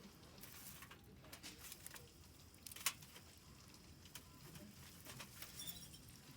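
Faint crackling of a wood campfire, scattered small clicks with one sharp snap about three seconds in.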